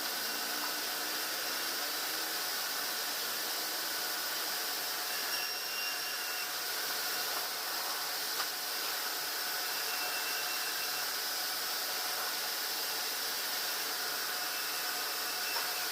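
Sawmill machinery running with a steady whooshing hiss, a few faint ticks and brief thin whines over it.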